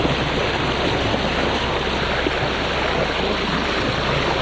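Steady rushing of wind and water aboard a sailboat under way, with a low steady drone of the boat's engine underneath.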